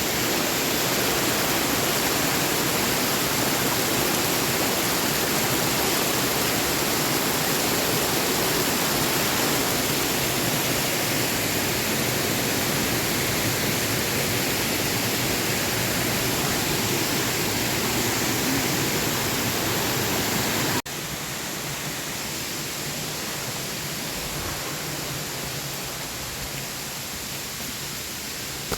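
Rushing water of the Erawan Waterfall cascade, a steady, even roar of falling water. About two-thirds of the way through it cuts off suddenly to a quieter, thinner rush.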